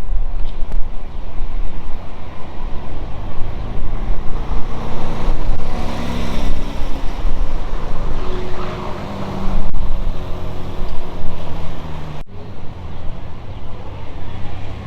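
Supercar engines running loud and accelerating, a deep rumble that rises and falls in pitch, with two abrupt cuts about ten and twelve seconds in.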